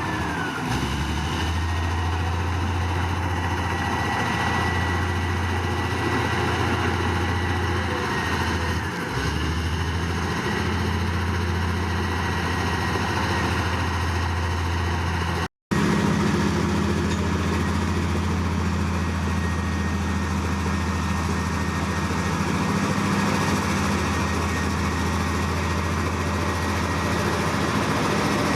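Heavy diesel earthmoving machine's engine running steadily, a deep low hum with a faint high whine over it. The sound cuts out for a split second about halfway through.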